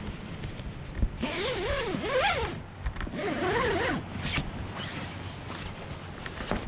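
A zipper pulled open in two long strokes, its pitch rising and falling with the pull speed, then a short third tug.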